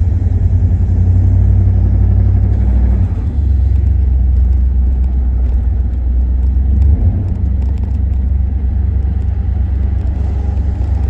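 Engine of a 1990 GMC 1500 pickup idling in neutral with a low, steady rumble and a faint ticking, which the owner takes for a noisy lifter.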